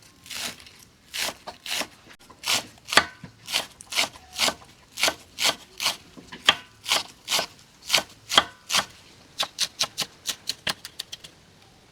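Knife chopping food on a cutting board, with steady strokes about two a second, then a quicker run of lighter strokes near the end.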